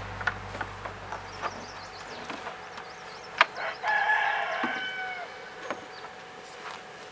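A rooster crowing once, about four seconds in, a single call of just under a second that falls in pitch at its end. Scattered sharp clicks and knocks sound around it, the loudest just before the crow.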